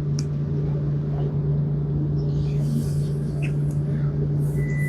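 A steady low mechanical hum, like an idling vehicle or a running fan unit, with a few faint clicks. A high-pitched electronic beep starts near the end.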